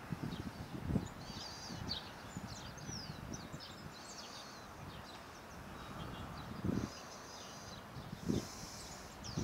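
Birds chirping and twittering in quick, high calls, over a low rumble with a few soft low thumps.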